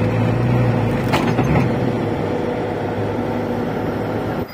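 Engine running steadily, a low even hum, with one brief knock about a second in.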